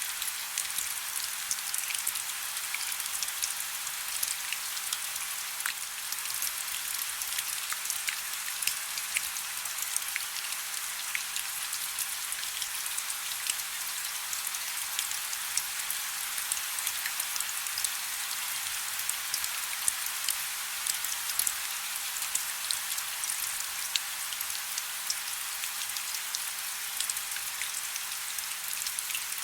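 Soft rain falling steadily, a dense hiss of fine drops with many small ticks of individual drops striking a surface.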